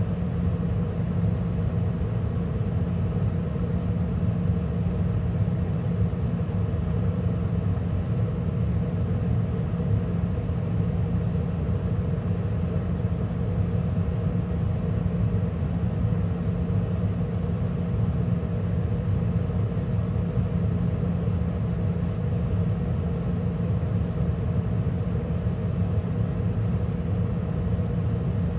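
2013 Carrier gas furnace running mid-cycle, with the burners lit and the inducer and circulating blower going: a steady, even rumble and hum.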